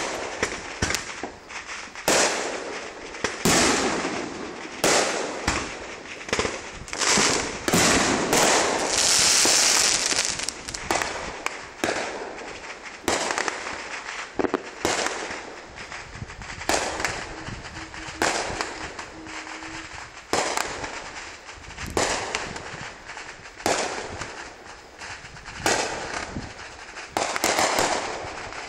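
Fireworks going off: a long, irregular run of sharp bangs, one or two a second, with a louder stretch of crackling hiss about nine seconds in.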